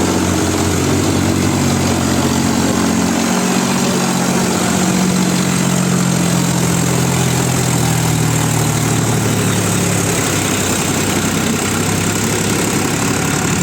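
Tractor engine running steadily under a constant hum; its pitched note weakens about ten seconds in, leaving a more even mechanical noise.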